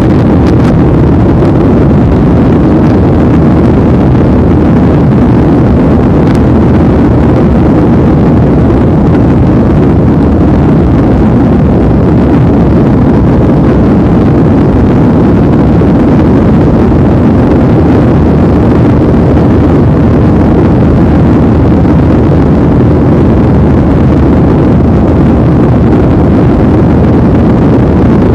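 Steady rumble and rush of an airliner's cabin in flight: engine and airflow noise, even and unchanging.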